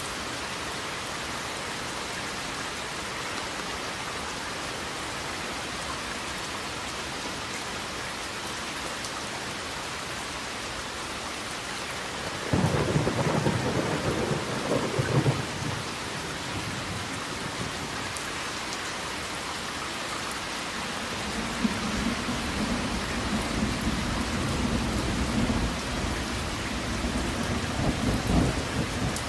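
Steady rain falling. About twelve seconds in, a sudden clap of thunder sounds for a few seconds. From about two-thirds of the way through, a long low rumble of thunder rolls on to the end.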